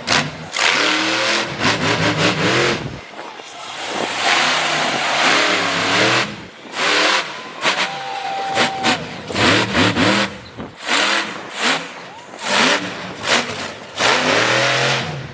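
Monster truck engine revving hard in repeated bursts, its pitch climbing and falling again and again, with sudden breaks between bursts.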